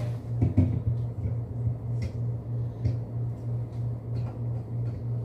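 Items being put into a refrigerator: a few knocks and clinks as things are set down, the loudest about half a second in, over a steady low hum that pulses about four times a second.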